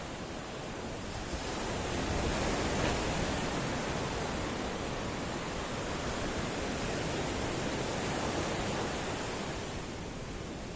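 Ocean waves breaking and washing on the shore, a steady rush of surf that swells a couple of seconds in and eases off near the end.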